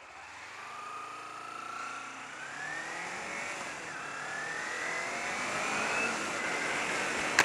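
Kawasaki Ninja 250R parallel-twin engine accelerating, its note climbing, dropping at upshifts about two and four seconds in, and climbing again, with wind noise growing as speed builds. A sharp knock near the end.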